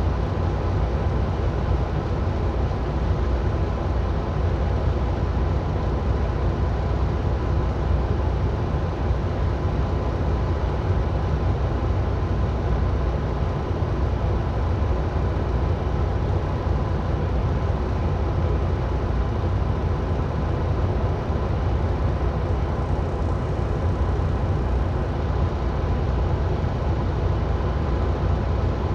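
Steady road noise of heavy traffic: a low, unbroken rumble of tyres and engines, with a faint steady tone in it.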